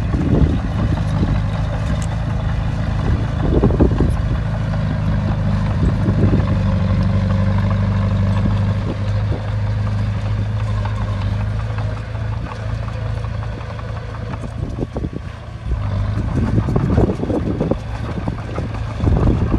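Heavy diesel engine of a crawler bulldozer running steadily under load, with a few clanks and knocks.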